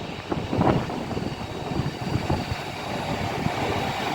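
Steady running noise of an Avanti West Coast Class 390 Pendolino electric train at the platform, with a low rumble underneath that grows slightly louder toward the end.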